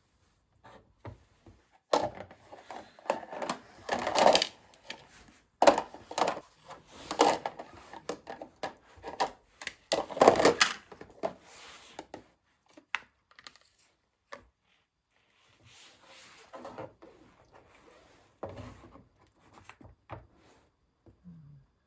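Irregular knocks, clatter and scraping of a knife and kitchen utensils on a wooden chopping board as raw meat is handled and cut. The knocks are loudest and densest in the first half and grow sparse after about twelve seconds.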